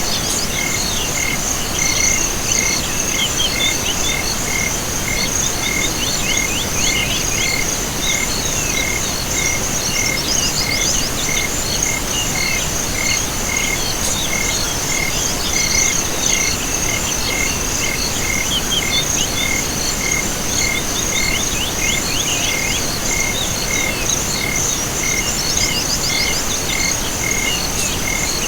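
Chorus of insects and frogs: a steady high insect trill, a short high note repeating evenly about three times every two seconds, and every few seconds a burst of quick falling chirps.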